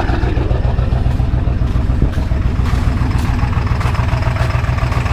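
Ford 7.3 Power Stroke V8 turbodiesel idling roughly just after a very cold start, with an even low pulsing beat. The owner thinks it is not running on all eight cylinders.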